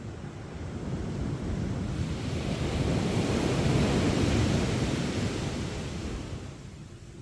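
Sea waves breaking on a sandy beach: one wave swells to a crash about midway and washes out, fading near the end. Wind buffets the microphone with a low rumble.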